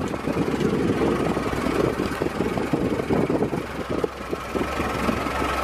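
Engine of a vintage open touring car running as it drives along, a fast uneven chatter heard from inside the car.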